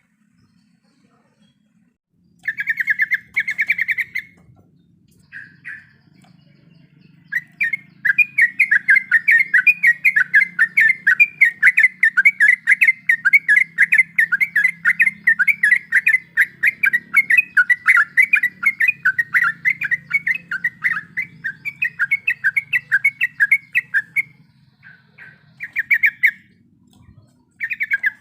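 Yellow-vented bulbul (cucak trucuk) singing a fast rolling chatter of rapidly repeated notes, in short bursts at first, then one long unbroken run of about seventeen seconds, then short bursts again near the end.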